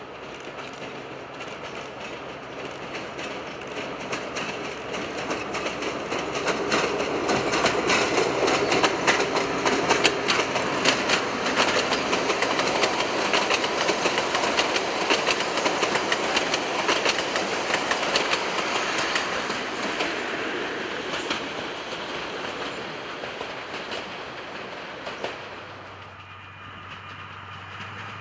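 Narrow-gauge diesel-hauled passenger train approaching and passing close by, its wheels clicking rapidly over the rail joints. The sound builds, is loudest in the middle, then fades away near the end.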